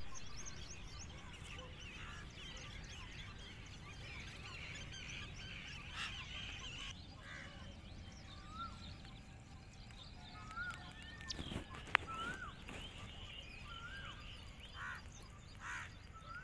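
Birds calling at dawn: a dense background of small birds chirping, with one bird repeating a short rising-then-falling call every second or two. A single sharp tick about two-thirds of the way through.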